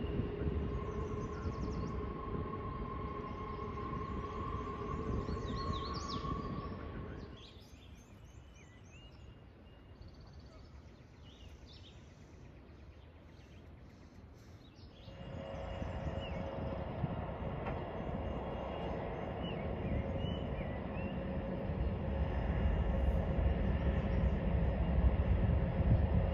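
A train rolling on the curve, its steel wheels squealing in steady held tones over the rumble of the cars. The sound drops away sharply about seven seconds in, then comes back about halfway through with new squeal tones and grows louder toward the end.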